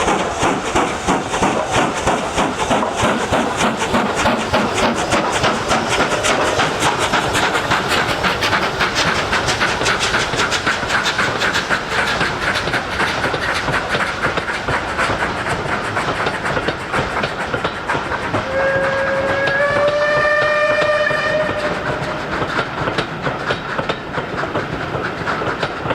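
Steam locomotive running at speed, a fast, steady train of exhaust beats mixed with wheel and rail noise. About two-thirds of the way in it sounds one long whistle blast of about three seconds, its pitch rising slightly.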